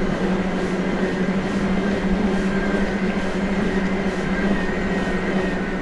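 Electric mountain bike's drive motor whining at a steady pitch under pedal assist, over a low rumble of tyres on the path.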